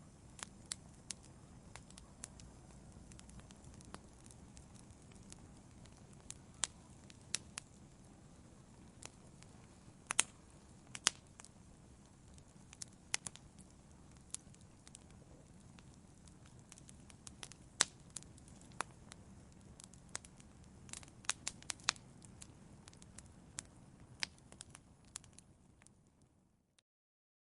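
Wood fire crackling in a fireplace: irregular sharp pops and snaps over a low, steady rumble of the flames. The sound fades out to silence near the end.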